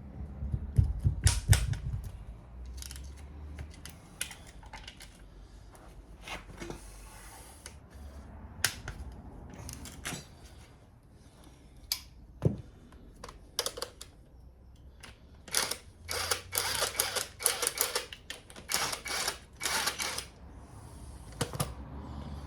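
Irregular clicks, knocks and rattles of hand tools on metal engine parts as components are unbolted from a Mazda MX-5 mk1 engine, with the loudest knocks about a second in and a dense run of rapid clicking about two-thirds of the way through.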